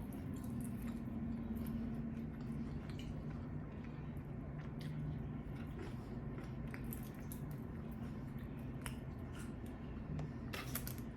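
Close-miked eating of chicken wings: wet, squishy chewing and mouth sounds with small scattered clicks, over a steady low hum.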